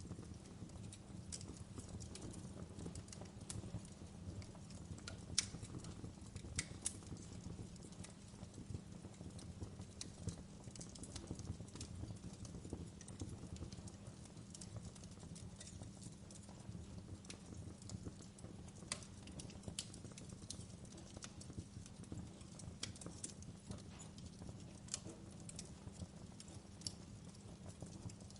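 Campfire burning: a steady low rumble with scattered sharp crackles and pops, two louder pops about five and six and a half seconds in.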